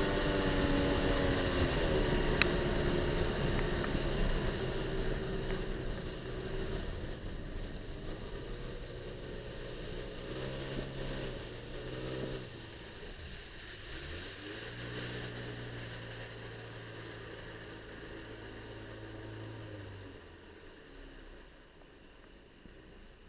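Jet ski engine running under way, its pitch dropping about two seconds in as the throttle eases. A few short throttle blips follow about ten to twelve seconds in, then a steadier drone over a rush of wind and water, and the sound fades gradually toward the end.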